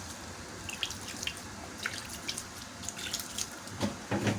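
Water dripping and splashing with scattered light clicks as a little water is worked into steamed seffa grains, ahead of the second steaming. A couple of louder knocks come near the end.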